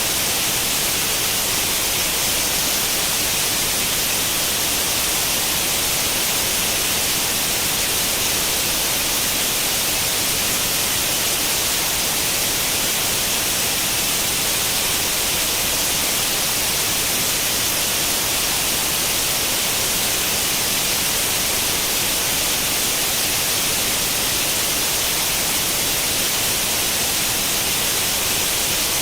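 Steady white-noise hiss of untuned tube-television static, bright and even with no change.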